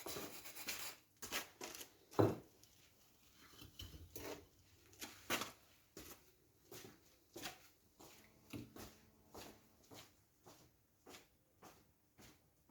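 Light, irregular taps and scrapes of bricklaying work, about one or two a second: bricks and tools handled against mortar, with a few sharper knocks in the first few seconds.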